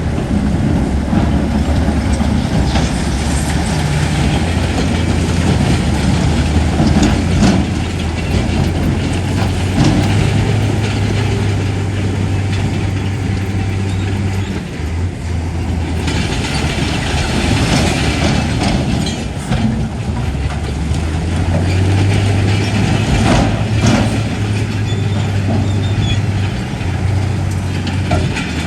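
Crawler bulldozer's diesel engine running steadily, with the irregular clanking and rattling of its steel tracks. The engine note dips briefly about halfway through and then comes back stronger.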